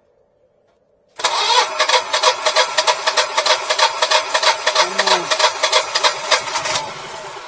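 Generac Guardian 4456 standby generator engine kicking on about a second in, running with a fast even pulse for several seconds, then cutting out and dying away near the end. It keeps kicking on and off, which the owner suspects is air in the gas lines or a sensor not getting gas.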